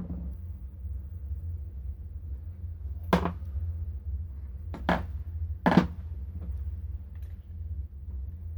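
Three sharp knocks of metal fork parts or tools being handled on a workbench, the last two close together, over a steady low hum.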